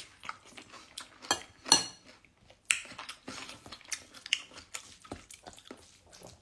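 A person chewing a mouthful of rice and tom yam eaten by hand, with scattered short mouth clicks.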